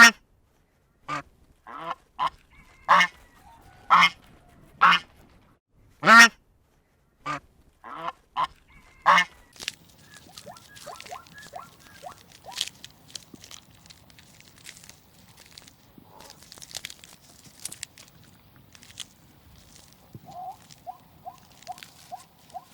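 Waterfowl calling: about ten loud, separate calls in the first nine seconds, then quieter scattered calls and a quick run of short, higher notes near the end.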